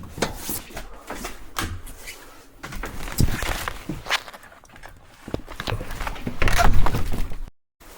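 Footsteps on an unpaved, bumpy dirt road: irregular steps, growing louder and denser near the end before cutting off suddenly.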